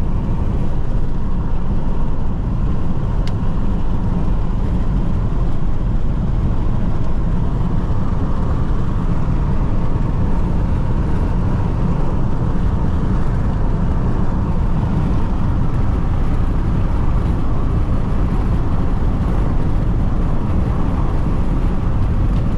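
Jeep Renegade turbodiesel driving at high speed, heard from inside the cabin: a low, steady rumble of tyres on asphalt and the engine.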